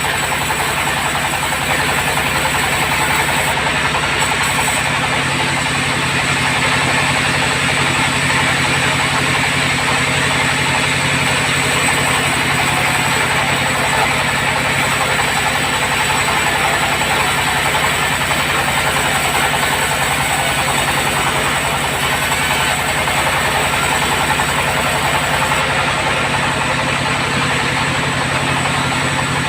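Sawmill bandsaw running steadily: a constant machine drone with an even hiss above it, with no pauses or changes.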